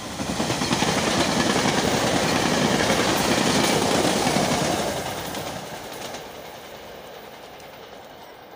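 SEPTA Regional Rail electric commuter train passing close by at speed: the rush and clatter of wheels on rail swells in the first second, stays loud for several seconds, then fades as the train goes away.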